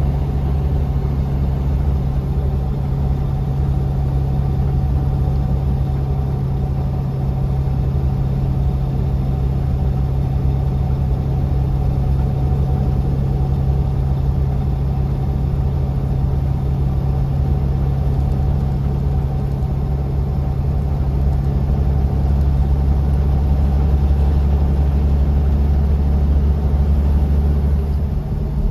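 Bus engine running, heard from inside the passenger cabin during a ride: a loud, steady low drone with a faint hum higher up, swelling slightly in the last third and dipping briefly near the end.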